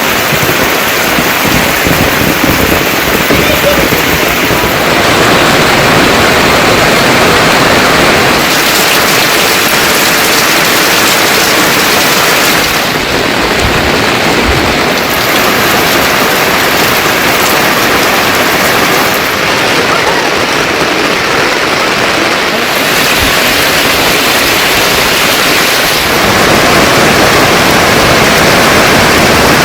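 Heavy monsoon rain pouring down, a loud dense hiss whose tone changes abruptly several times.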